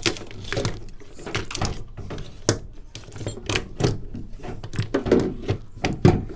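Handling noise from work on a van door: a string of irregular knocks, clicks and clunks as parts and tools are handled, the loudest clunk near the end.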